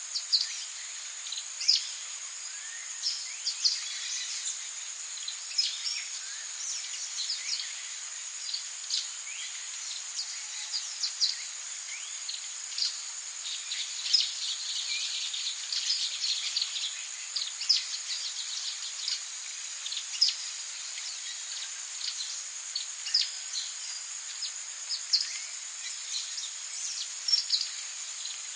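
Tropical rainforest ambience: a steady, high-pitched insect drone with many quick bird chirps and calls scattered throughout, over a faint hiss.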